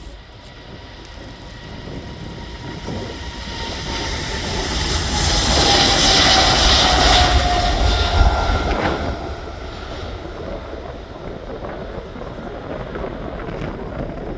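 Jet airliner taking off and passing by. The engine noise swells to its loudest about halfway through, with a whine that slides down in pitch as the plane goes past, then fades to a steady low rumble.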